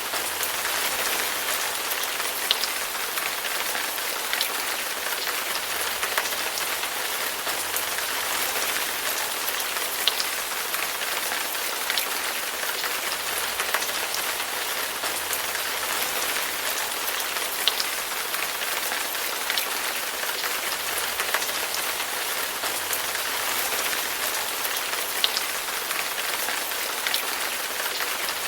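Steady rain falling, with a sharper, louder drop or drip every few seconds.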